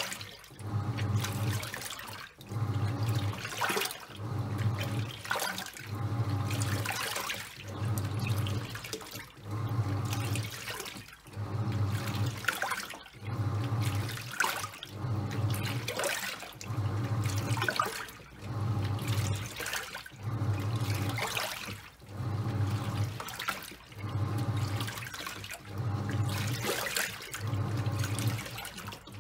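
Top-loading washing machine agitating a load of towels: the pulsator motor hums in short strokes about every second and a half, with water sloshing and churning in the tub on each stroke.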